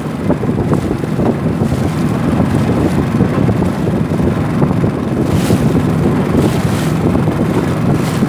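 A canoe's longtail outboard motor (rabeta) running steadily under strong wind buffeting the microphone, with brief louder gusts or splashes about five and seven seconds in.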